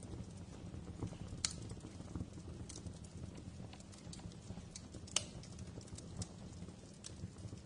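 Wood fire crackling in a fireplace: a steady low rumble with irregular sharp pops and snaps, two louder pops about a second and a half and five seconds in.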